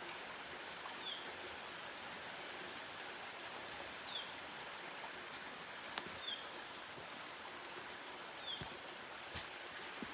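A small songbird calling over and over, a short high note and a falling slurred note taking turns about once a second, over a steady outdoor hiss, with a few sharp clicks.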